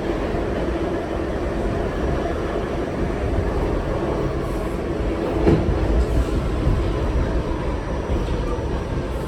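R68 subway car running along the track: a steady low rumble with a faint hum, and a sharp knock about five and a half seconds in, followed by a few smaller clicks.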